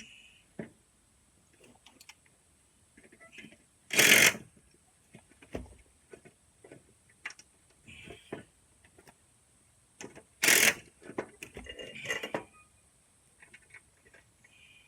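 Small metal parts and hand tools clinking and tapping in irregular clicks, with two louder, noisier bursts of about half a second, one about four seconds in and one about ten and a half seconds in.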